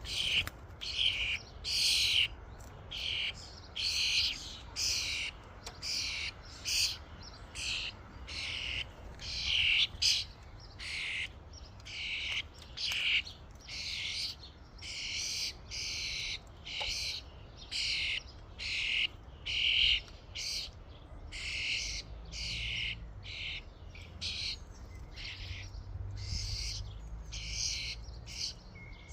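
Songbirds chirping in a steady series of short, high calls, about one to two a second.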